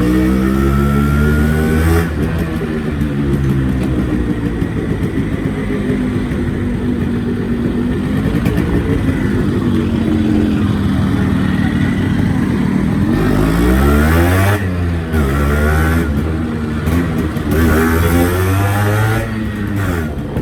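Yamaha RX-series two-stroke motorcycle engine revving, its pitch climbing and falling several times, with a quick run up and down about two-thirds of the way through.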